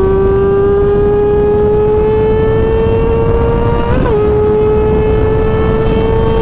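Sport motorcycle engine held at high revs, its pitch climbing slowly and steadily as the bike accelerates, with a brief wobble in pitch about four seconds in, over a heavy rush of wind noise.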